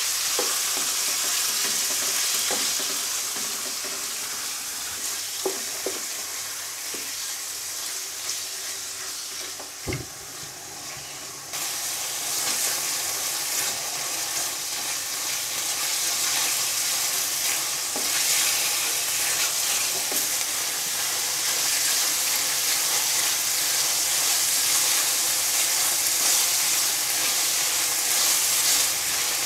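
Diced boneless chicken and garlic sizzling in hot oil in a wok as they are stir-fried with a silicone spatula, with a few light knocks of the spatula against the pan. The sizzle softens for a while, then comes back louder about a third of the way through.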